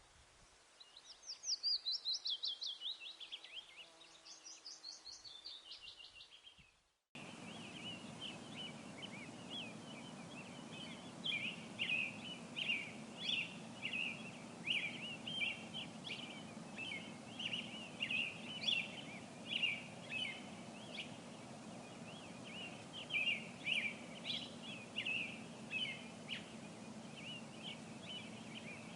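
Wild birds singing. First two fast trills each slide downward, fading out about seven seconds in. Then a different recording begins: many short, repeated chirps over steady background noise with a faint low hum.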